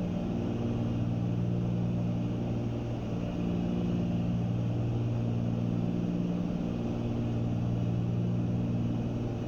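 Twin piston engines and propellers of a Cessna 310Q running steadily in cruise, heard from inside the cabin. The engine tone swells and fades every few seconds.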